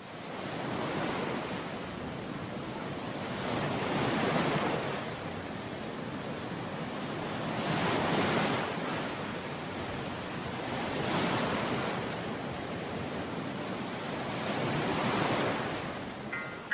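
Ocean surf: waves washing in as a rush of noise that swells and fades about every three to four seconds.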